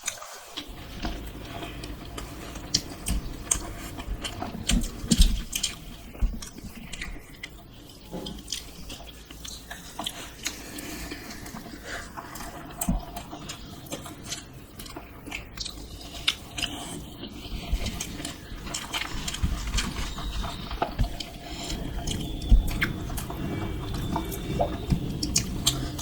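Close-miked eating sounds of someone eating dosa: chewing and wet mouth noises, with many small clicks and knocks scattered throughout.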